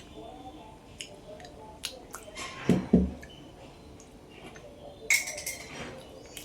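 Tableware being handled: a few light clicks, two solid knocks in quick succession about three seconds in, then a short scraping rustle near the end.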